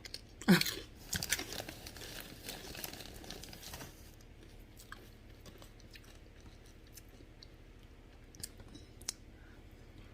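Close-up chewing and crunching of corn chips dipped in soup, densest in the first few seconds and then quieter chewing with scattered crackles. A brief loud sound with a falling pitch comes about half a second in.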